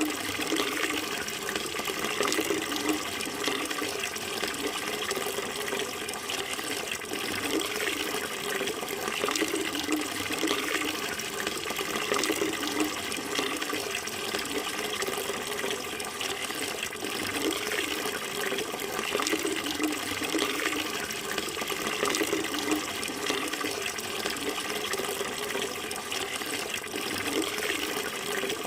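Running water flowing steadily without a break, a continuous splashing.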